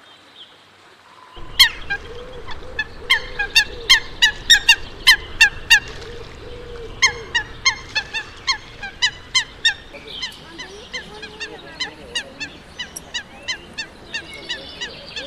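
A water bird giving a long series of short honking calls, about three a second, starting about a second and a half in and growing fainter in the second half, over a steady background rush.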